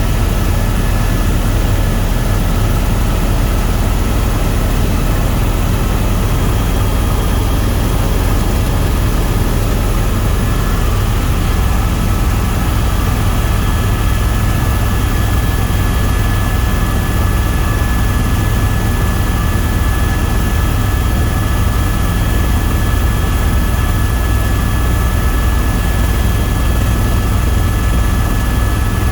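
Tour helicopter in steady flight: a loud, unchanging rotor and turbine rumble with a constant high whine over it.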